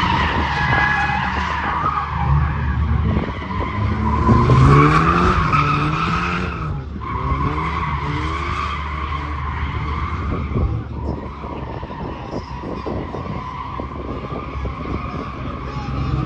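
Nissan Silvia drift car's engine revving hard with its tyres squealing as it drifts. The engine note climbs and falls several times, loudest about four to five seconds in.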